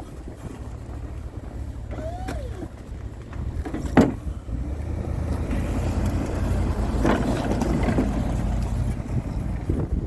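Truck engine running with a steady low rumble, wind buffeting the microphone. A brief squeak about two seconds in and a sharp knock about four seconds in.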